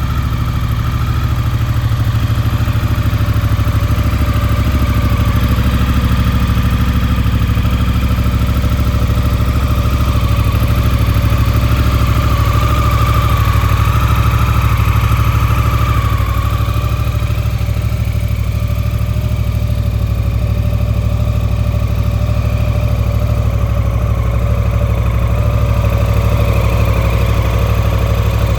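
Honda CRF1000 Africa Twin's parallel-twin engine idling steadily through a full SC Project aftermarket exhaust, with a deep, even exhaust note.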